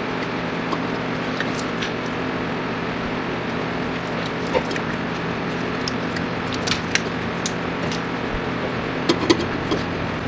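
A steady mechanical hum runs throughout, with a few light clicks and knocks scattered over it, the loudest a quick pair near the end.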